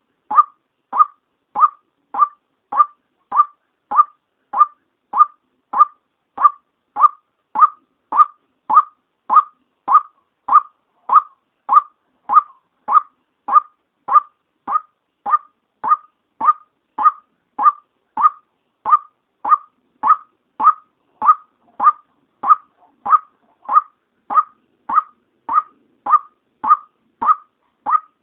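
Female white-breasted waterhen call used as a trapping lure: one short, mid-pitched note repeated at a very even rate, a little under twice a second.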